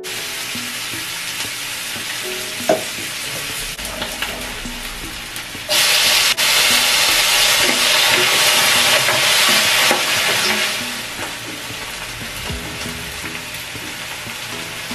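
Chopped onions sizzling in hot oil in a non-stick frying pan while a spatula stirs them. About six seconds in the sizzle jumps suddenly much louder as chopped tomatoes hit the hot pan, then eases back down after about four seconds.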